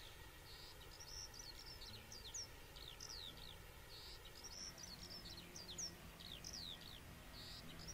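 Bird chirping faintly: a continuous series of short, high, falling chirps, about two or three a second, broken by a few short buzzy notes.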